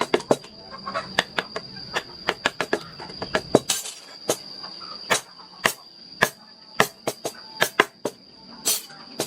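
Irregular sharp taps, about two or three a second: a wooden mallet driving a carving chisel into wood. A steady high insect trill runs behind.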